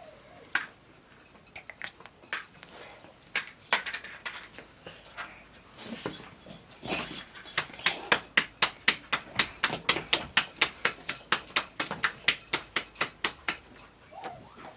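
A series of sharp knocks or chops, scattered at first, then a steady run of about four a second through the second half.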